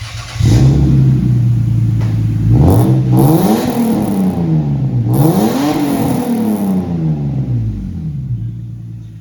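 Lexus GS300 engine through a straight-piped exhaust, idling and then revved twice. Each rev climbs and falls back over about two and a half seconds before the engine settles to idle again.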